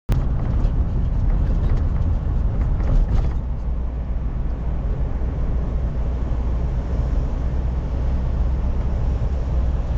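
Steady low rumble of a car heard from inside the cabin, engine and road noise, with a few faint ticks in the first few seconds.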